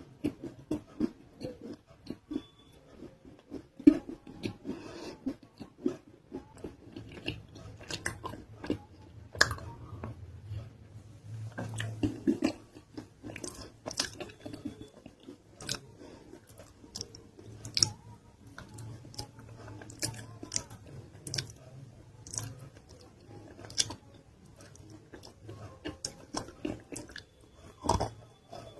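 Close-miked chewing and biting of a non-roasted nakumatt clay roll, with irregular crisp crunches between stretches of chewing.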